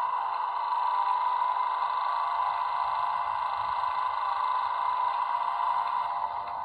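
Class 90 electric locomotive sounds from a YouChoos sound decoder (Zimo MX644) played through the model's small speaker: a steady electric hum made of several held tones, which shifts slightly about six seconds in.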